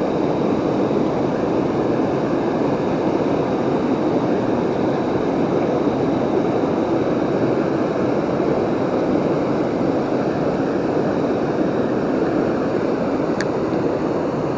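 Waterfall rushing steadily, an even dense roar of falling water, with a single short click near the end.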